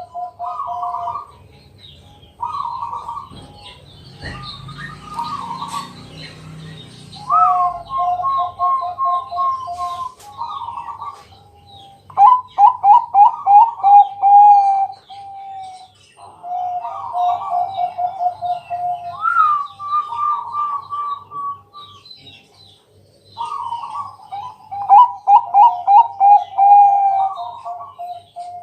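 Zebra dove (perkutut, Bangkok strain) singing its cooing song: repeated phrases of quick, rippling coos, with two loud runs of rapid staccato notes, one about halfway and one near the end.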